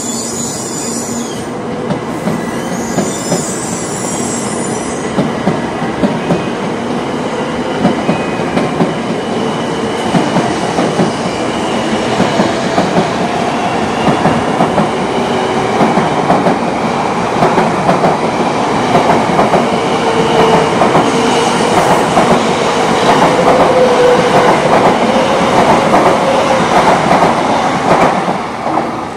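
A 700 series Shinkansen electric train passing close by, its wheels clacking in a steady rhythm over the rail joints amid the rush of the cars. It grows louder as the train goes by and drops off near the end.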